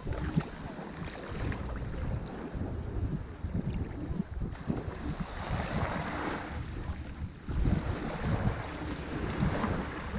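Ocean surf washing on a shore, with a brighter hiss of breaking water about six seconds in, over an uneven low rumble of wind buffeting the microphone.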